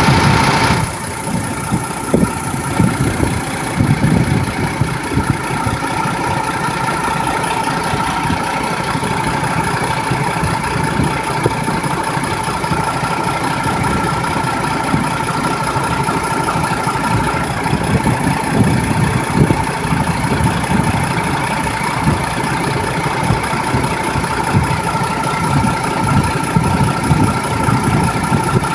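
MAN diesel engine running at a steady speed, a dense rapid clatter with a steady whine over it.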